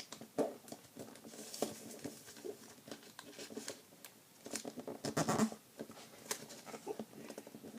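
A sheet of origami paper being folded and creased by hand: soft crisp rustles and small scrapes, with a denser burst of rustling about five seconds in.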